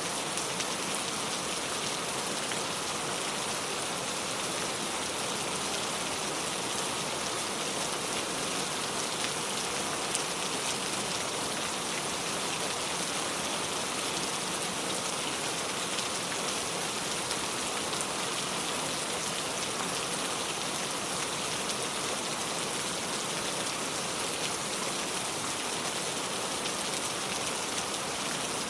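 Steady, heavy rain falling and pattering on surfaces, with fine drop impacts throughout and no thunder.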